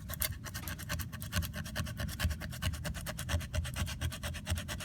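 Coarse sandpaper rubbed in quick, even back-and-forth strokes over a cured chemical-resistant coating lining, roughening it to give a surface profile for a patch repair to grip.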